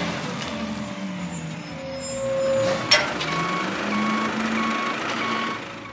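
Truck reversal alarm beeping four times, evenly spaced, over a running engine, with a short sharp sound just before the beeps begin.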